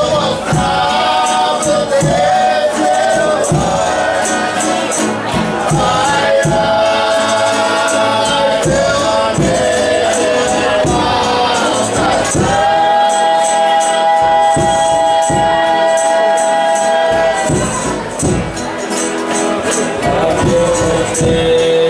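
Folia de Reis singing: several voices in harmony, holding one long chord about halfway through, over a steady beat on tambourine.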